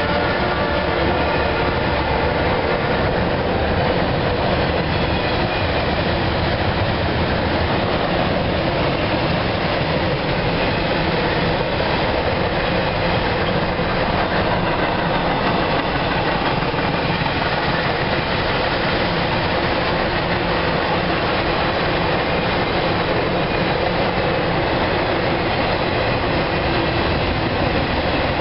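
Cars of an intermodal freight train rolling past, a steady, unbroken wheel-on-rail noise.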